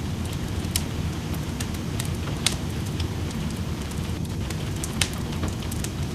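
Wood fire in a fireplace crackling with irregular sharp pops, three louder snaps among them, over a steady rush of rain.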